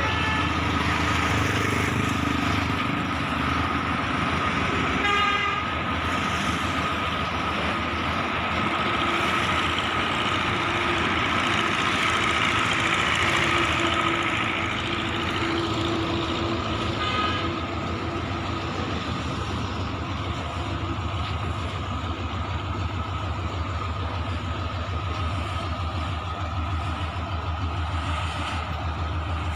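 Heavy diesel engine running steadily with a low rumble and a steady whine, and a short vehicle horn toot about five seconds in and again about seventeen seconds in.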